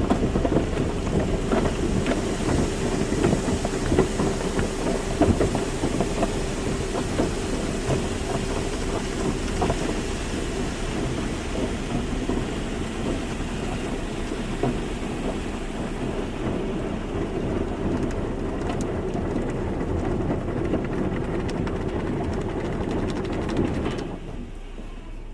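Automatic car wash running: water spray and wash machinery working over a car, a dense rushing and pattering with a steady hum under it. The sound drops off sharply about a second before the end.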